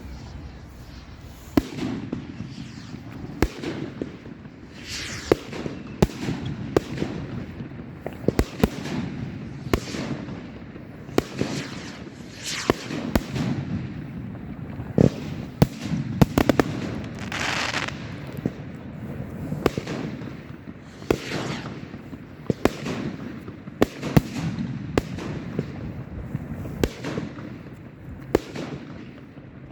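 Fireworks going off in a continuous barrage: sharp bangs and crackles follow each other every second or less. Several longer hissing whooshes run through them.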